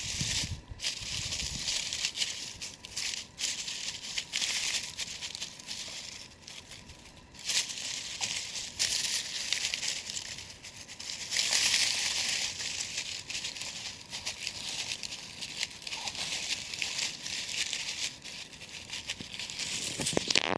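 Dry leaf litter and brush crunching and rustling unevenly, loudest about halfway through.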